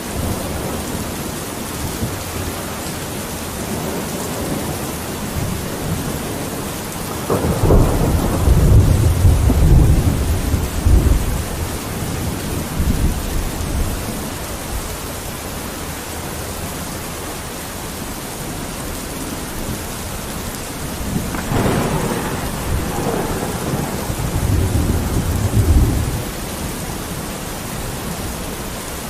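Steady rain falling, with two long rolls of thunder: one about a quarter of the way in and a second, slightly weaker, about three quarters of the way through.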